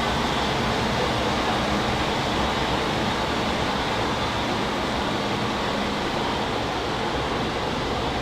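Jet aircraft engine on a carrier flight deck, making a steady, even noise with no change in pitch.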